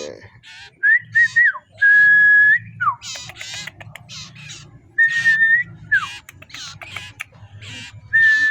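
Common iora (cipoh) singing: a few long, steady whistled notes, each followed by a quick downward slurred note, with many short chirps in between.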